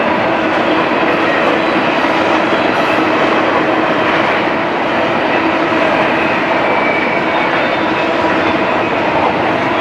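BNSF double-stack intermodal train's container well cars rolling past, a steady, unbroken rumble and rattle of wheels on rail, with a few faint steady whining tones above it.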